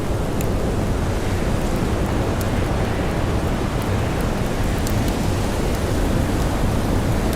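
Steady, dense storm wind and blowing snow, heaviest in the low end, with a few faint crackles of a campfire.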